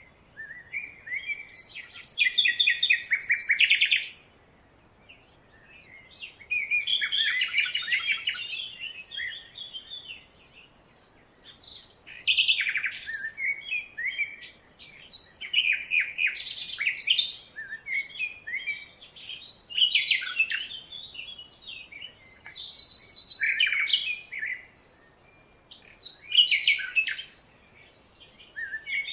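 Birds singing and chirping, phrase after phrase, each lasting a second or two with short pauses between; some phrases are fast trills.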